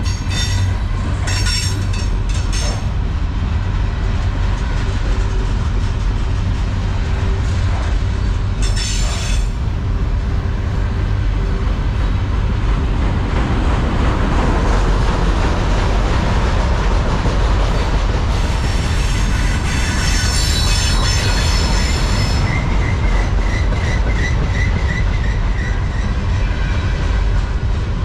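Freight train of trash container cars rolling past, a steady rumble of steel wheels on rail with brief wheel squeals a few times and a high ringing squeal near the end.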